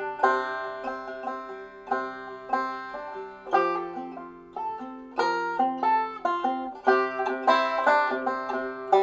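Background music: a slow banjo instrumental, plucked notes ringing and fading one after another.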